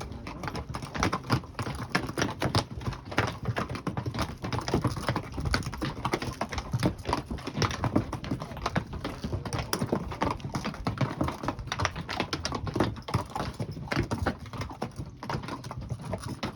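Hooves of a mule train clopping as the mules walk past, many hoof strikes overlapping in an irregular clatter.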